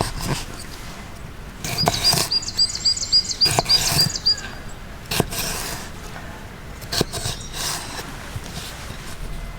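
A small songbird singing a quick trill of about ten short, evenly repeated high notes, a couple of seconds long, among sharp clicks, knocks and rustles of gear being handled.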